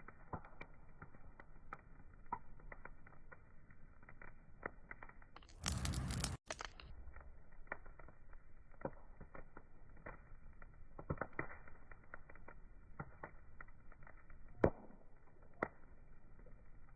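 Wood fire crackling: irregular sharp pops and snaps over a soft hiss. About six seconds in, a burst of louder, brighter hiss lasts under a second and cuts off abruptly. One sharp pop stands out near the end.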